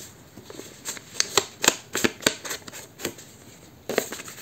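Paper being handled and dabbed along its edges with an ink pad: a run of short, irregular taps and rustles.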